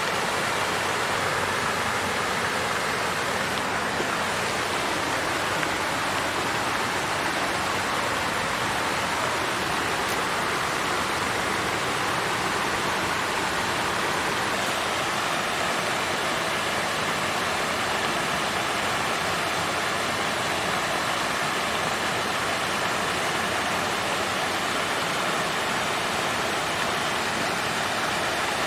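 Water fountain flowing: a steady, even rush of falling, splashing water.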